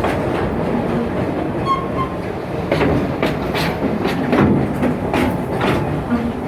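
Amusement-park passenger train rolling along the track, heard from aboard: a steady rumble of wheels on rail with irregular clicks and knocks over the rail joints. A brief high squeak comes about two seconds in.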